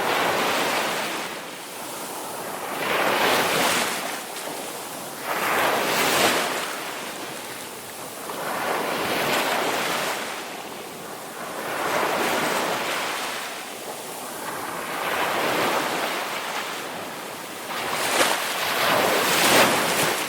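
Ocean waves surging in and falling back in a slow, even rhythm, one swell about every three seconds.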